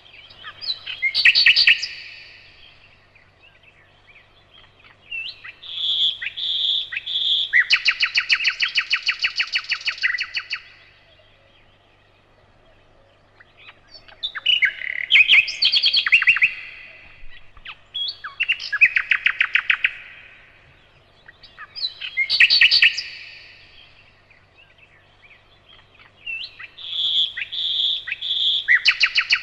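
Nightingale singing: separate phrases with short pauses between them, mixing a few slow, loud repeated notes with long runs of fast-repeated notes.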